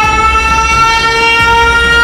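Warning siren sounding a loud, steady wail, its pitch still creeping slightly upward as it levels off, over a low hum.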